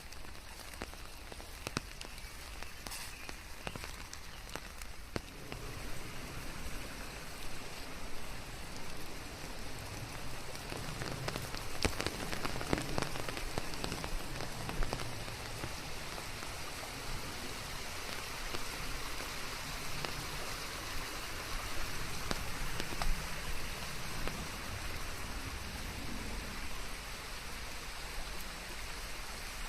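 Steady rain falling, with scattered individual drops ticking; it grows a little heavier about five seconds in.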